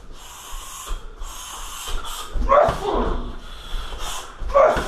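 Muay Thai fighter striking a heavy bag: sharp hissing exhales on the strikes and two short grunting cries about two seconds apart, each with a dull thud from the bag.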